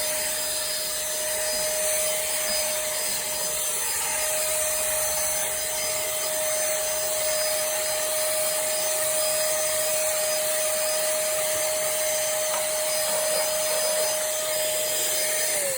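Cordless handheld vacuum cleaner's motor running with a steady whine and airy hiss, then switched off near the end, its pitch falling as the motor spins down.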